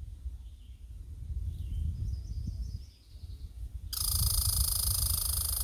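American red squirrel giving its rapid, buzzy chattering rattle, which starts suddenly about four seconds in and is loud. It is the squirrel's alarm call, announcing intruders.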